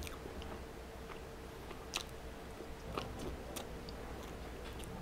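A person chewing a mouthful of chili cheese dog close to the microphone: soft mouth and chewing noises with a few sharp clicks about two, three and three and a half seconds in, over a faint steady hum.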